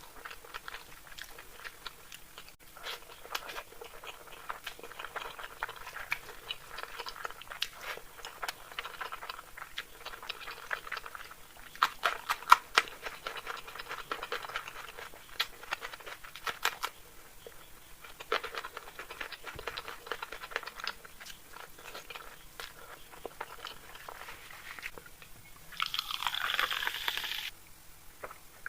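Close-up mouth sounds of a person eating masala egg curry with rice: steady wet chewing with many quick clicks and smacks, a louder cluster of them about twelve seconds in. Near the end comes a louder rushing sound lasting about a second and a half.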